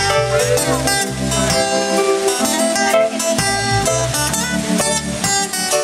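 Live band playing an instrumental break of a reggae-flavoured rock song: guitar over bass guitar and drums, with no vocals.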